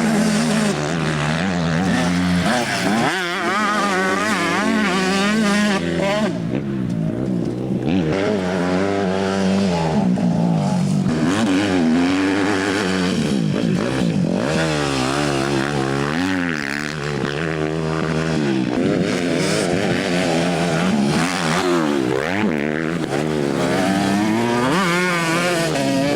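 Several motocross bikes running on the track, their engines revving up and down again and again as they accelerate and back off, more than one engine heard at once.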